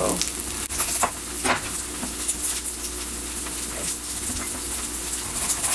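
Thin breaded milanesa cutlets sizzling steadily as they fry in oil in a pan. A few sharp knife taps on a cutting board come in the first second or so, as an onion is sliced.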